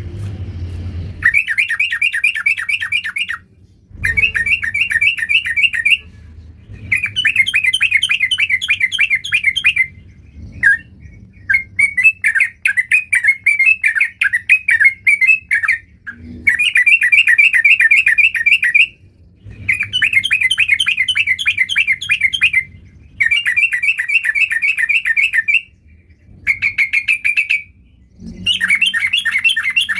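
Yellow-vented bulbul (trucukan) singing steadily: repeated bubbly, rapid warbling phrases of two to three seconds each, with short pauses between them.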